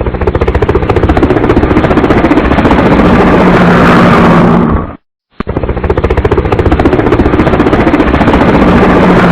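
Helicopter running close by, with the rapid, even beat of its rotor blades over a steady engine tone. The sound cuts out abruptly for about half a second around the middle, then comes back.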